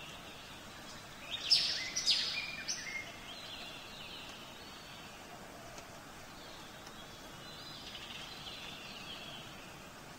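Birdsong over a steady background hiss: a burst of loud, sharp bird calls about one to three seconds in, then fainter, scattered chirping.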